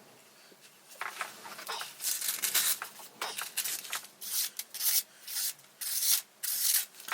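A kitchen knife blade rubbing in a string of short strokes, about two a second, with brief gaps between them.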